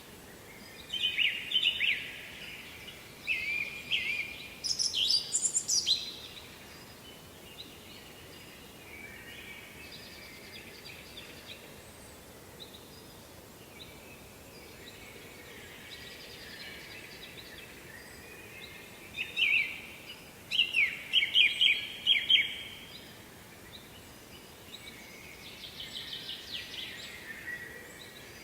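Songbirds singing short, quick trilled phrases in two flurries, in the first six seconds and again after about nineteen seconds, with a fainter phrase near the end. Under them runs a steady rush of falling water.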